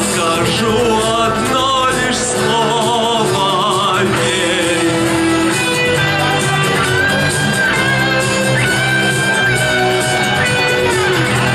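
Pop song performance: a male voice singing with vibrato over guitar-led backing music, giving way to held instrumental notes after about four seconds.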